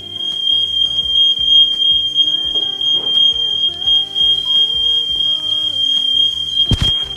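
Smoke alarm sounding: one steady, loud, high-pitched tone that switches on abruptly and holds, over background music. A single heavy thump near the end.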